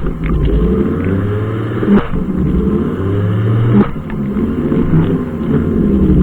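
Brushcutter engine running at work, its pitch rising and falling as the throttle and load change, with two sharp clicks, about two seconds in and again near four seconds.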